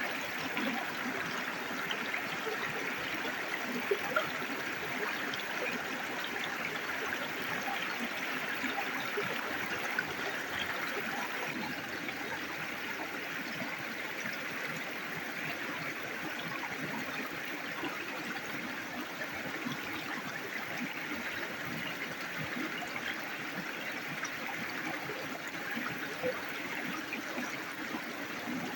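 River water flowing steadily, an even rushing and trickling, with a few faint sharp clicks about four seconds in and again around ten seconds.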